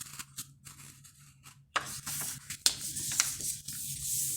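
A sheet of A4 paper being folded in half and the crease rubbed flat: dry rustling and rubbing, with two sharp crackles a little under a second apart near the middle.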